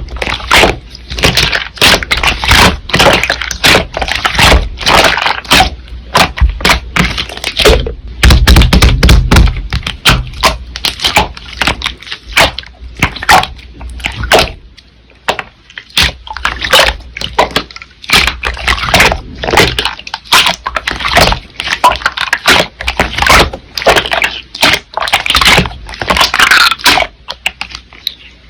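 Slime being squeezed and kneaded by hand, giving many rapid, irregular crackling clicks and pops, with a heavier, fuller patch about eight seconds in.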